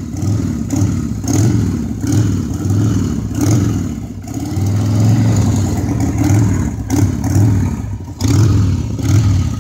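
1986 Harley-Davidson Sportster 1100's air-cooled Evolution V-twin running after a carburettor rebuild, its engine speed rising and falling again and again, with short drops in level about four and eight seconds in.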